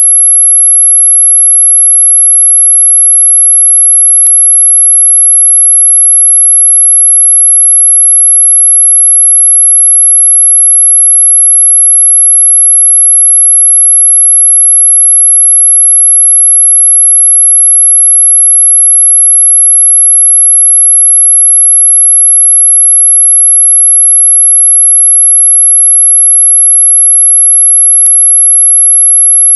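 A single loud, steady high-pitched sine tone at about 11 kHz, played as a mosquito-repellent sound, with two faint clicks, one about four seconds in and one near the end.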